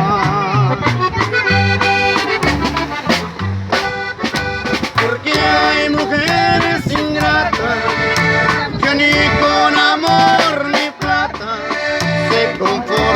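Instrumental break of a norteño-style song: accordion playing a melody line over a walking bass and a steady drum beat.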